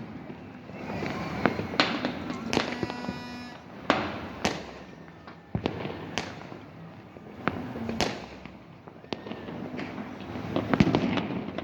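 New Year fireworks and firecrackers going off all around: irregular sharp bangs, some loud and close, others distant and faint, over a continuous background crackle and rumble of more bursts.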